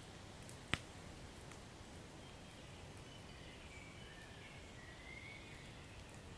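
Wood fire burning in a fireplace: a steady low rumble with one sharp crackle about a second in. There are faint, thin high whistles through the middle.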